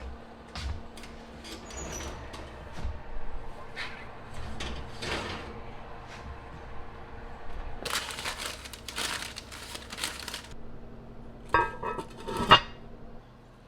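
Kitchen handling sounds over a low steady hum: scattered light clicks and scrapes, a couple of seconds of hissy rustling in the middle, then two loud ringing clinks of dishes near the end.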